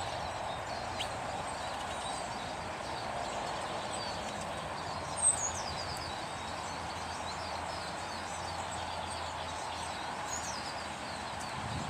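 Small birds calling over a steady background hiss: a few short, high chirps, with one louder falling call about five seconds in and another near the end.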